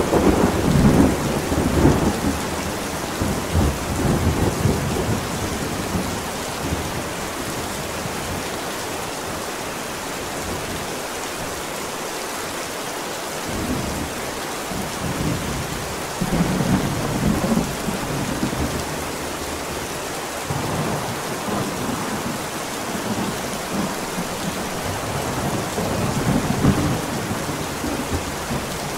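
Steady rain with rolling thunder. One rumble dies away over the first few seconds, another swells up about halfway through, and lighter rumbles follow near the end.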